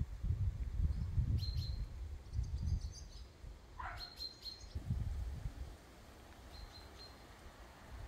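Bird chirping outdoors: short high chirps in small clusters about four times, with one quick falling whistle about four seconds in. Under it, a low rumble comes and goes, wind buffeting the microphone.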